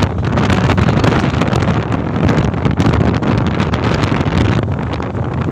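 Wind buffeting the microphone over the steady running and road noise of a moving truck.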